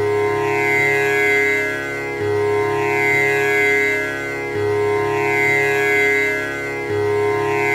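Tanpura drone, its strings plucked in a repeating cycle of about two and a half seconds. A low string starts each cycle, and the notes ring on into one another with shifting overtones.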